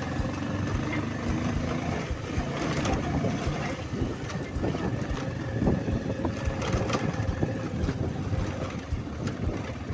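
Motorcycle running on the move, its engine sound mixed with uneven wind noise on the microphone.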